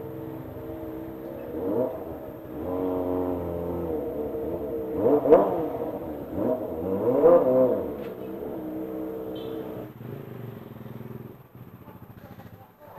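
Kawasaki ZX-25R's 250 cc inline-four engine revving up and down several times. The loudest rises come about five and seven seconds in, and the engine dies down near the end.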